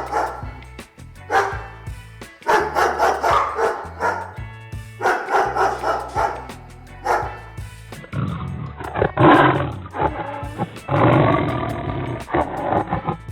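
Animal calls, a series of drawn-out cries each a second or two long, over background music with a steady bass line. From about eight seconds in, louder calls from a different recording.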